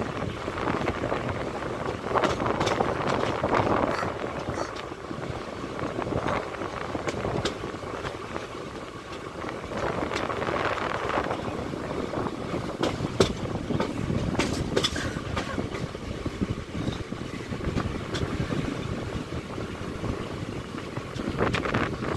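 Train running on the rails: a steady rumble with scattered sharp clicks of wheels over the track.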